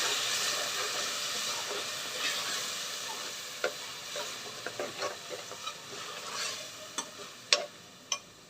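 Onion paste frying in hot oil in a pan: a steady sizzle that slowly dies down, with a spoon stirring and knocking against the pan several times in the second half.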